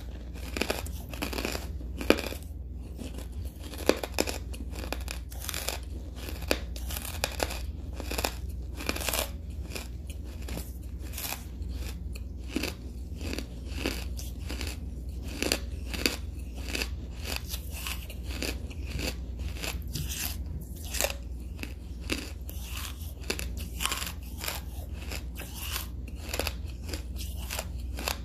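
Hard charcoal being chewed close to the microphone: a steady run of crisp, gritty crunches, several a second, with a few louder bites, about two and four seconds in the loudest, over a steady low hum.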